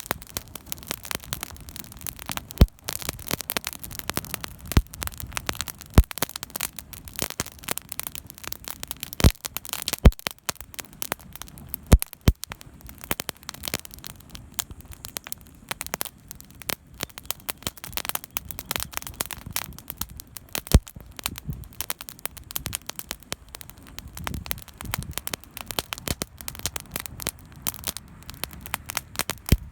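Wood campfire crackling, with irregular sharp pops and snaps, a handful of them much louder than the rest.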